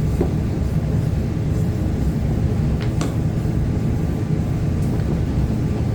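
Land Rover LR3 air suspension compressor running, a loud steady drone with a few faint clicks, while a cheap replacement part fitted to it is tested.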